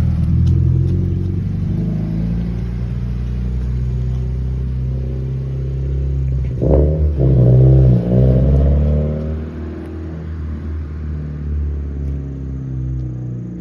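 Exhaust of a Toyota 86's 2.0-litre flat-four, fitted with a Be Free muffler and a straight-through rear pipe, rumbling at low speed. About seven seconds in the throttle opens and the note swells, then it settles back and grows quieter over the last few seconds.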